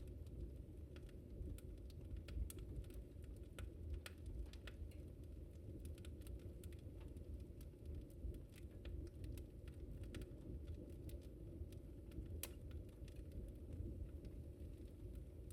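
Wood fire crackling in a fireplace: irregular sharp pops and snaps, several a second, over a faint steady low rumble.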